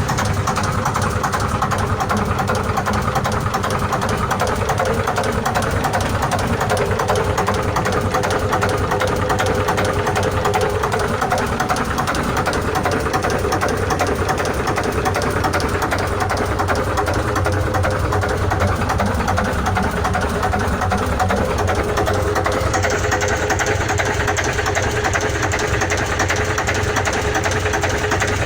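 Kelvin J2 marine engine running steadily with a rapid, even beat; its tone shifts slightly about three-quarters of the way through.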